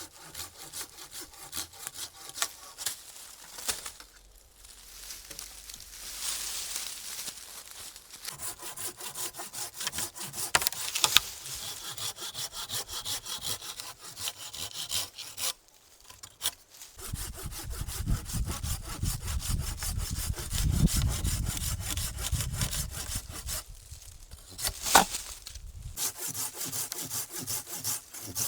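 Hand saw cutting through wood in quick back-and-forth strokes, stopping briefly twice and starting again, with a couple of sharp clicks along the way.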